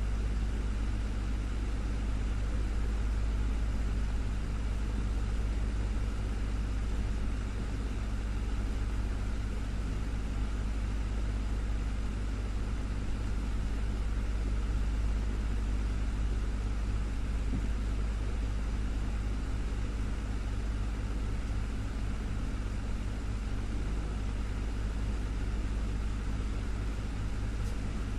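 Desktop fan running steadily: a constant low hum with an even rush of air over it, unchanging throughout.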